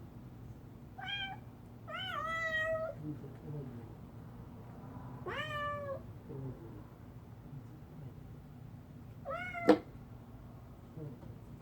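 A domestic cat meowing four times, the second meow the longest. A sharp click comes right at the end of the last meow.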